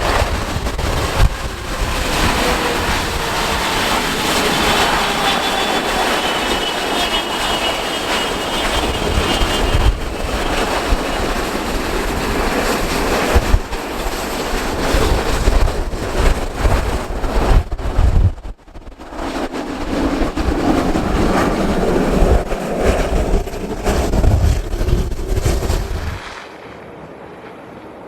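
Jet airliner engines, a Boeing 777-300ER's GE90s, running loud under heavy wind buffeting on the microphone, with a whine that falls in pitch over the first ten seconds. The engine noise drops away sharply near the end.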